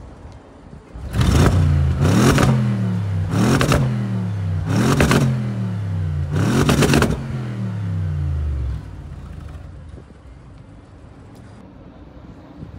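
Audi RS6 Avant's twin-turbo V8 revved hard five times in quick blips, the pitch falling back after each, through its sport exhaust. The engine sound drops away about nine seconds in.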